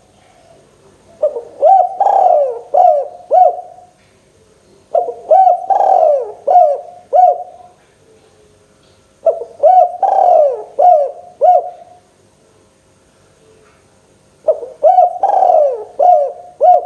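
Spotted dove (tekukur) cooing: four phrases of about five short coos each, a second or two of quiet between phrases.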